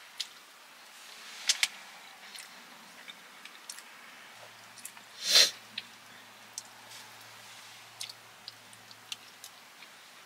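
Close-miked chewing of a poke bowl: small wet mouth clicks and light clicks of a plastic fork in a plastic bowl. About halfway through comes one louder short breathy rush, lasting about half a second.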